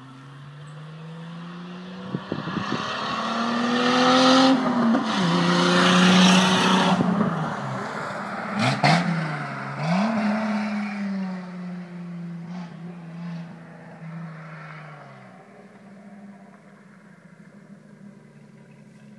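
Straight-piped 1977 Datsun 280Z's straight-six engine accelerating hard, its pitch climbing and then dropping at each upshift, with a few sharp cracks around a shift about halfway through. The engine note then steadies and fades as the car pulls away.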